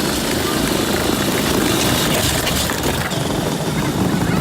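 Ride-on F-150 toy truck being driven, a steady low running noise from its motor and wheels rolling over the ground, with no clear engine note.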